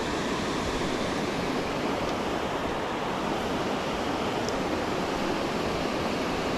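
Steady rush of flowing creek water, an even wash of noise that holds constant.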